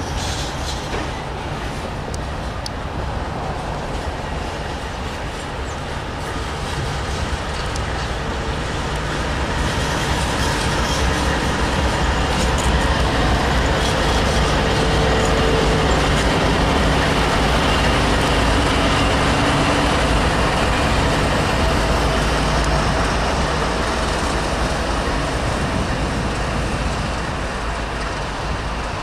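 Freight train passing close by: GE Evolution-series diesel locomotives running under load among loaded hopper cars rumbling over the rails. It is a steady rumble that grows louder about a third of the way in and eases off near the end.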